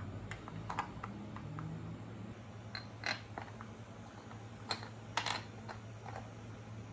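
About a dozen scattered light clicks and clinks from hand tools and small parts being handled during a motorcycle oil change, the sharpest about three and five seconds in, over a steady low hum.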